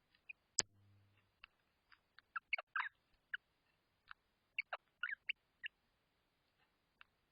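Short, sharp bird call notes in two quick clusters, about two seconds in and again about four and a half seconds in. Before them, just over half a second in, comes a single sharp knock, the loudest sound, with a brief low hum after it.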